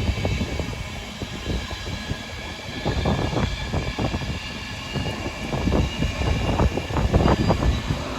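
Freight train rolling past at close range, a low rumble with irregular clattering knocks from the wagons' wheels.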